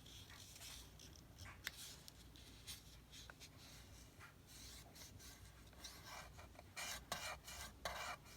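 Faint rubbing and rustling of paper being handled, with a few louder scrapes about seven seconds in.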